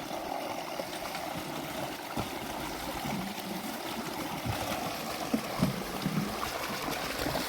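Spring water running and trickling steadily, with a few light knocks in the middle.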